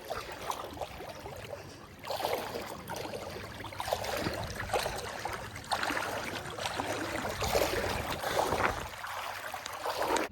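Shallow sea water splashing and sloshing, with many short, irregular splashes that grow louder about two seconds in.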